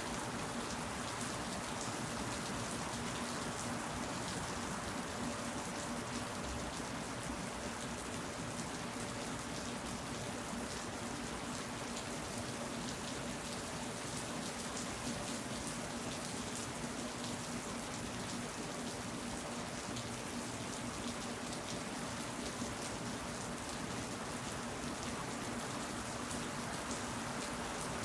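Steady rain falling, a dense even patter of many small drop impacts, with a faint steady hum underneath.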